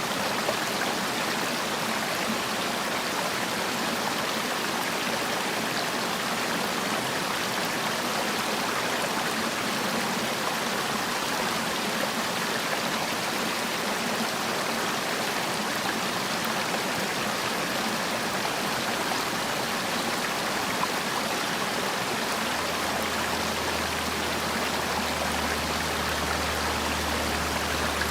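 Mountain stream water rushing and splashing over rocks in a steady, even flow. A low steady hum joins in about three quarters of the way through.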